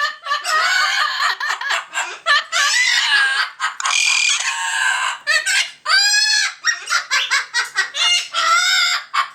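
Several pet parrots squawking and chattering at once, a dense run of overlapping high calls. A loud call rises and falls about six seconds in, followed by a quick series of short repeated squawks near the end.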